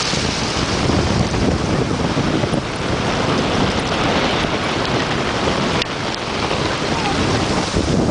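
Wind buffeting the microphone over the steady wash of sea waves breaking on the shore.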